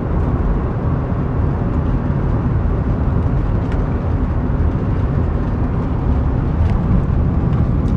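Steady low rumble of vehicle noise with no break or change, with a few faint ticks over it.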